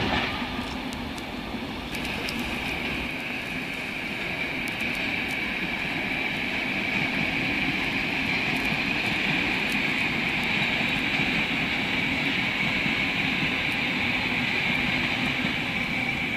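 Electric passenger train running past on an overpass: a steady rushing noise with a high hiss in it.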